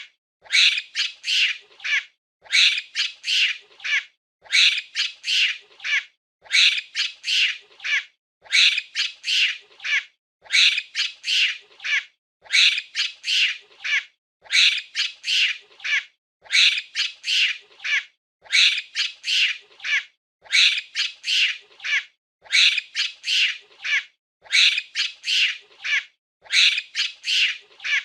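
Monkey calls: a burst of four or five quick, shrill squeaks, repeated about every two seconds in the same pattern, as a looped recording.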